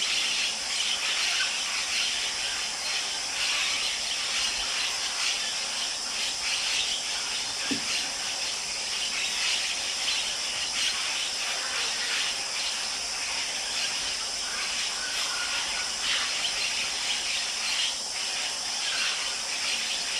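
A flock of blue-headed parrots calling in a constant chatter of many short, shrill squeals over a steady hiss.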